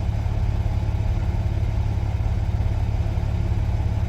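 Semi truck's diesel engine running at low speed, heard from inside the cab as a steady low rumble.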